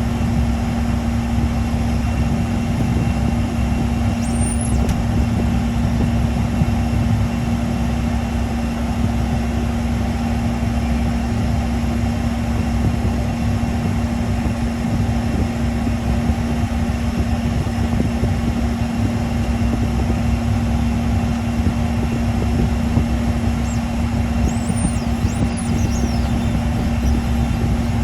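Learjet 60's Pratt & Whitney Canada PW305A turbofans running at low taxi power, heard from inside the cockpit as a steady loud drone with a constant hum.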